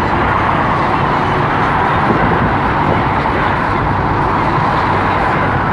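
Steady vehicle noise: an even hum of engine and road that holds level throughout.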